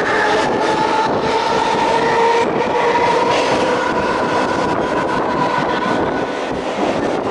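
Mumbai suburban electric local train running on the line: a steady rumble carrying a whining tone that holds level and then slowly sinks, with scattered clicks of the wheels over rail joints.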